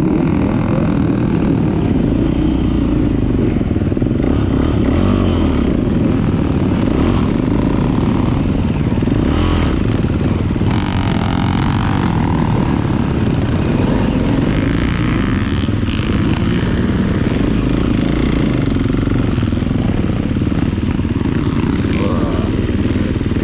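Beta 450 RX four-stroke motocross bike engine running hard, its pitch rising and falling as the throttle opens and closes, over a steady heavy rumble.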